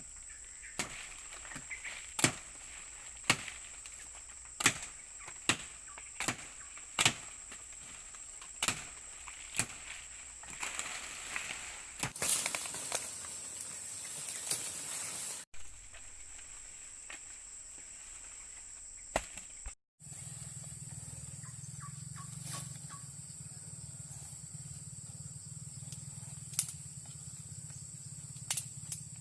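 Sharp knocks, roughly one a second, over a steady high insect-like drone; after a break, a steady low hum.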